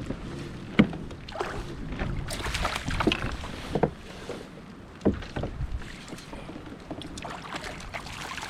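Water splashing and irregular knocks and clicks around a kayak.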